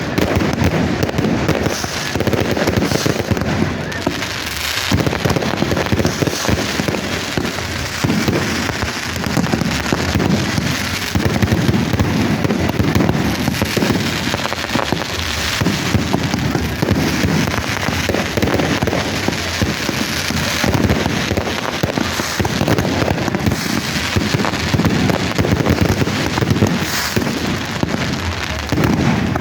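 Fireworks going off in a dense, continuous barrage of crackles and pops, loud throughout with no pause.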